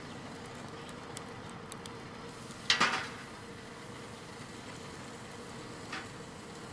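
Wood fire burning in a Petromax Atago fire pit: a steady hiss with faint crackles, one loud sharp snap about three seconds in and a smaller one near the end.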